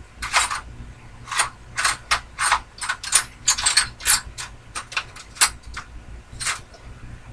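Irregular run of sharp metallic clicks and clinks, a couple of seconds apart at first and then closer together through the middle, as small metal hardware is rummaged through in search of a small wood screw.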